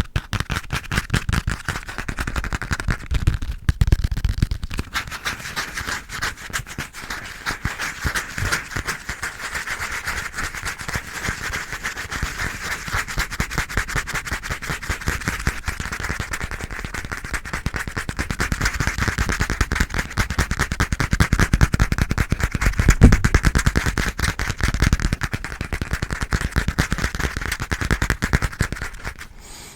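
Fast, aggressive tapping, a dense run of many taps a second with a scratchy hiss underneath, picked up close on a microphone set to full sensitivity.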